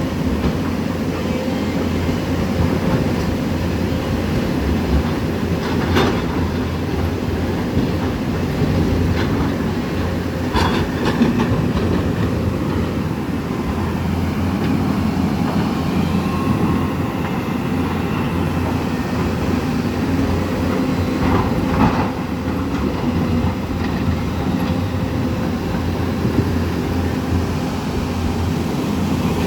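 Melamchi River in flood: a loud, steady rumble of rushing floodwater, with a few short sharp knocks now and then.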